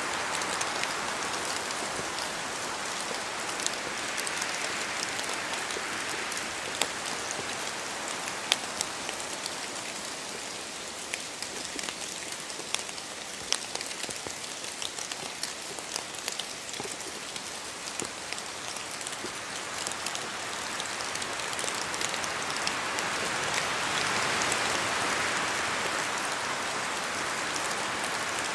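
Steady rain falling through forest trees, a continuous hiss with many separate heavy drops pattering down from the leaves. The hiss swells and eases, louder near the start and again about two-thirds of the way through.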